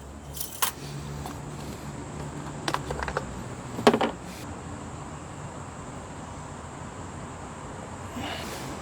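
Handling noises while topping up engine oil: a few short clicks and knocks, the loudest about four seconds in, over a low steady hum.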